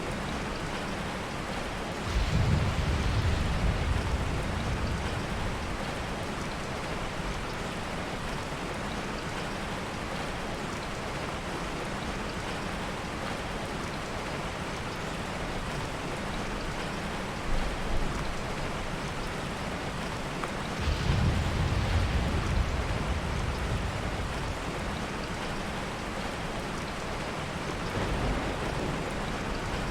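Steady heavy rain with low, soft rolls of thunder: one about two seconds in, another about twenty seconds in, and a fainter one near the end.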